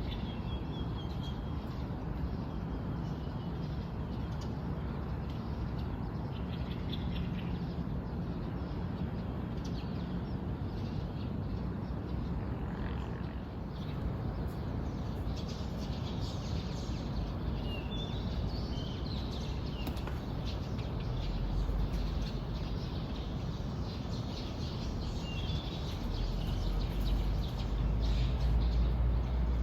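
Small birds chirping in short, scattered calls over a steady low rumble, which grows louder near the end.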